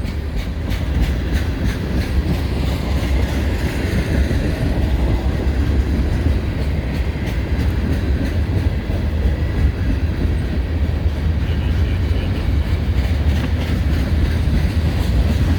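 Freight train cars rolling past at close range: a steady, heavy rumble with faint wheel clicks over the rail.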